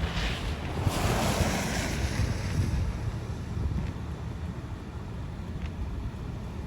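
Wind rumbling on the microphone, with a louder rush of noise swelling about a second in and dying away.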